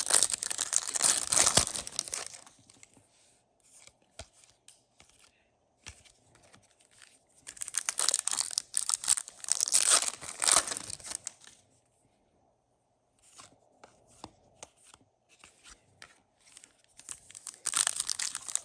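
Foil trading-card pack wrapper crinkling and tearing in three loud bursts (at the start, around the middle, and near the end), with faint clicks and rustles of cards being handled in between.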